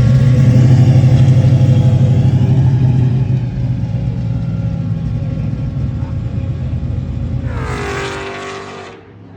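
Car engine rumbling loudly at low revs close by, then fading as the car moves off. Near the end a second car goes past quickly, its engine note falling in pitch, and the sound cuts off abruptly.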